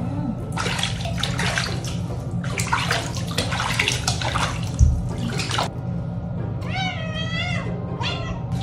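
Water splashing and running as a cat is bathed, with a thump about halfway through, then the cat meowing twice near the end.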